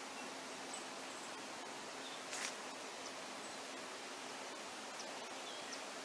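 Steady outdoor hiss with faint, very short, high bird chips scattered through it, and a brief rustle about two and a half seconds in.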